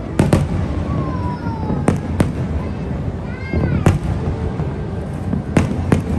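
Fireworks bursting overhead: a string of sharp bangs, several in close pairs, over a steady low rumble, with a few short sliding tones between them.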